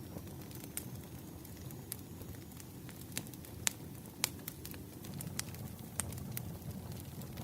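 Wood fire crackling: irregular sharp pops and snaps, the loudest two a little past halfway, over a steady low rumble.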